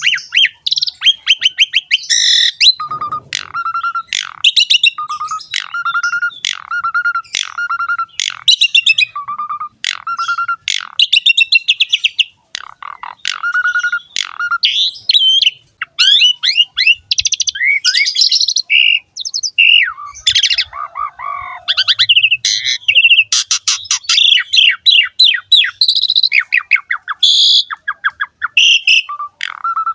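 Asian pied starling (jalak suren) in full, continuous song. It runs through a fast, varied mix of chattering notes and whistles, with a string of evenly repeated short notes in the first third.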